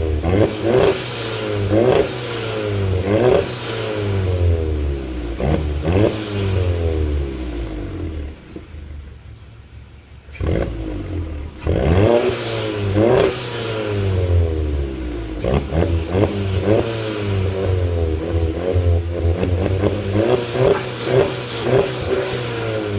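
Volkswagen Mk7's engine and exhaust revved over and over, pitch rising sharply and then falling away each time, with short sharp hisses from the turbo blow-off valve at the peaks. It quietens for a couple of seconds about a third of the way in, then the revving picks up again.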